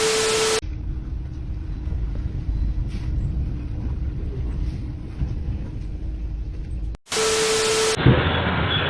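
A vehicle's low, steady rumble for about six seconds, bracketed by two short bursts of loud hiss with a steady beep-like tone, one at the start and one near the end. Just after the second burst comes a thump.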